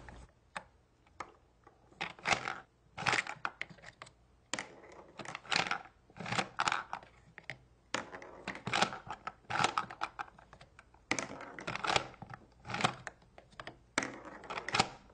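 Hard plastic clicking and rattling in irregular clusters as a plastic toy truck is handled: its gas-tank cover opened and small plastic capsules taken out of the cab.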